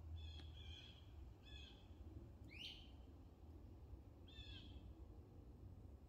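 Faint wild bird calls: short high chirps about once a second, with one sweeping call about two and a half seconds in, over a low steady rumble.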